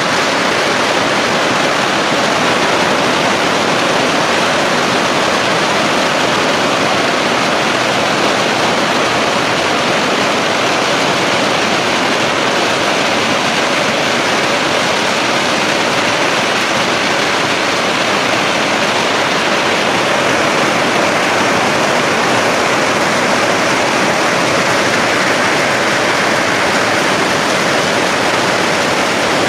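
Heavy rain pouring down steadily on trees and foliage, a dense, even hiss with no let-up.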